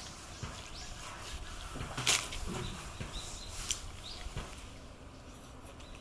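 Light rain pattering and dripping, with scattered knocks, the loudest about two seconds in, and a few short high bird chirps around the middle.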